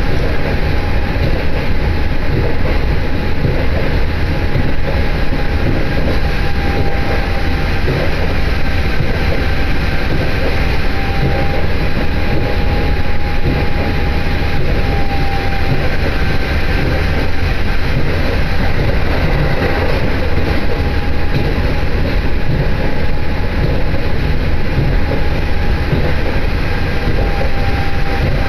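Steady running noise inside a diesel railcar under way: a loud low rumble of wheels and engine, with a thin steady whine over it.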